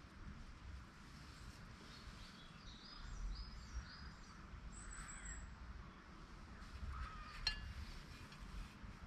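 Faint birdsong: a few short chirps about three seconds in and a thin high whistle a little later, over a low rumble. A single sharp click comes near the end.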